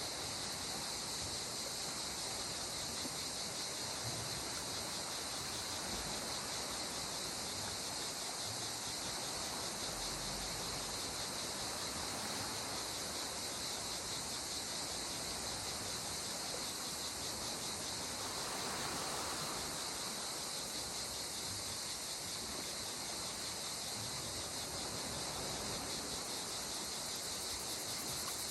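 Gentle sea water washing in soft swells, twice rising a little, under a steady high insect chorus that runs without a break.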